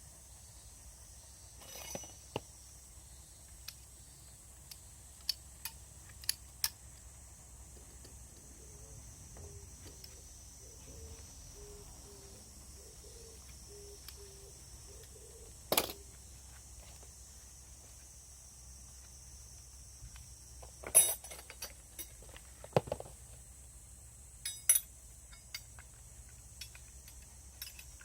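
Scattered metallic clinks and knocks of tools and parts being handled during a motorbike oil change, a few sharper ones standing out, over a faint steady high hiss.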